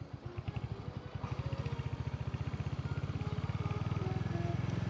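Royal Enfield motorcycle engine running with an even pulsing beat. From about two seconds in the beat quickens and grows louder as the bike accelerates out of a turn.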